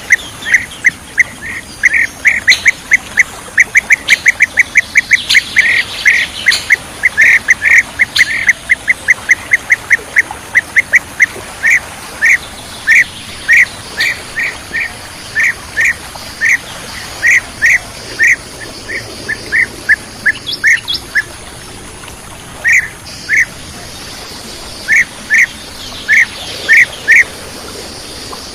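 Bee-eater (kirik-kirik) calls: a long run of short, loud notes all at the same pitch, coming several a second at first. About halfway through they slow to spaced single and paired calls, with fainter, higher chirps scattered among them.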